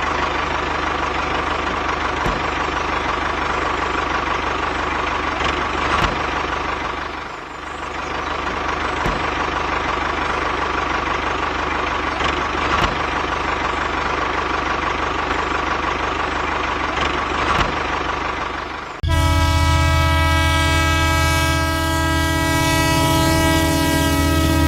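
A vehicle runs steadily with a noisy, engine-like drone and a few faint clicks. About three-quarters of the way through it cuts abruptly to a loud, steady horn blast that falls in pitch near the end.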